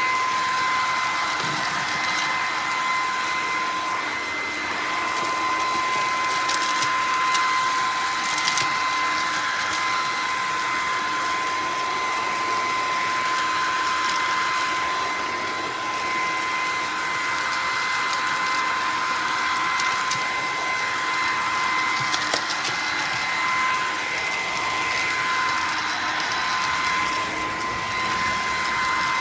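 Bissell PowerClean FurGuard cordless stick vacuum running: a steady high motor whine over a rushing airflow that swells and fades, with a few brief ticks.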